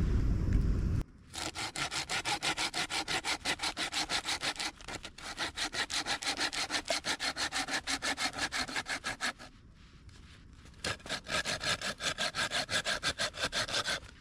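Hand saw cutting through wood in quick, even strokes, about five a second, with two short pauses, about five and ten seconds in. A loud low rumble cuts off about a second in.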